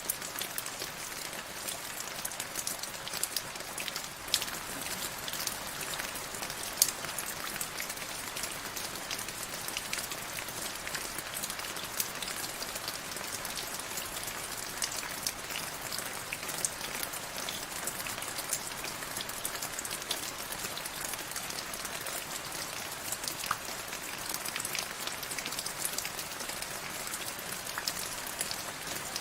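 Steady rain falling, with many individual drops ticking sharply on a surface over a constant hiss.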